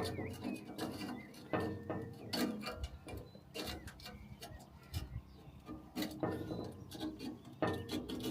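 Irregular knocks, clicks and scraping from cleaning out a narrowboat's weed hatch, with hardened weed and muck being scraped and knocked loose.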